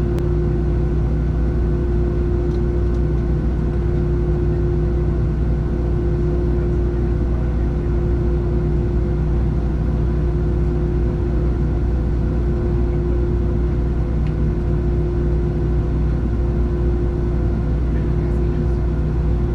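Steady cabin drone of a Boeing 737-700 airliner's CFM56-7B jet engines and airflow: a deep rumble with a steady hum running through it.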